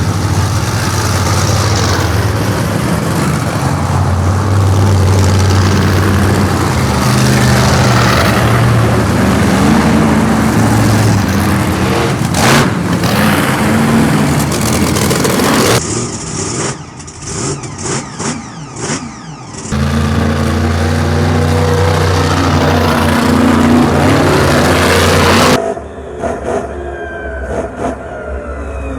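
Monster truck engines running hard and revving, rising and falling in pitch, with the sound changing abruptly three times as one shot gives way to the next.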